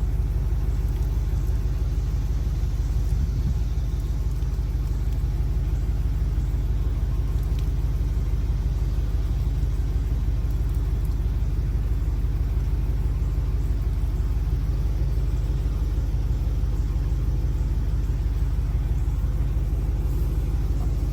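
Pickup truck engine idling steadily, a constant low rumble.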